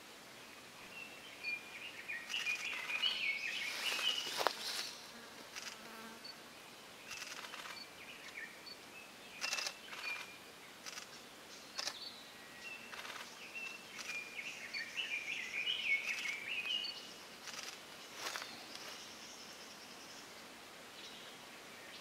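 Bird twittering in two spells, with a few scattered sharp taps of a Japanese green woodpecker's bill on wood as it works at its nest hole.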